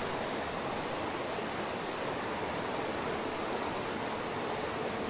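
Small stream cascades running: a steady, even rush of water.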